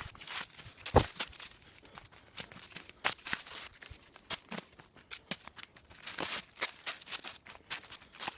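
Footsteps crunching and scuffing along a rough trail at an irregular pace, with one heavier thump about a second in.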